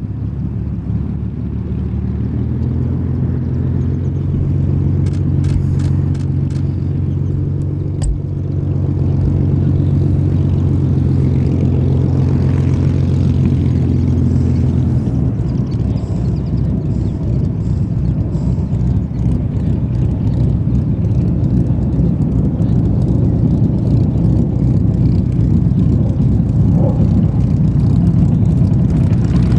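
Rolls-Royce Merlin V12 engine of a Supermarine Spitfire running with a steady low drone. Its note turns rougher and more even about halfway through.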